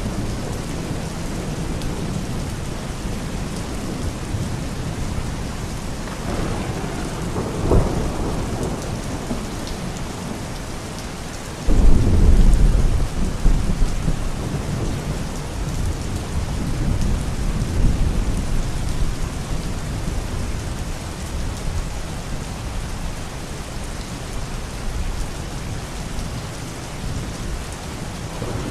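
Steady rain with thunder: a low rumble swells around six to eight seconds in, and a louder thunderclap breaks about twelve seconds in and rolls off.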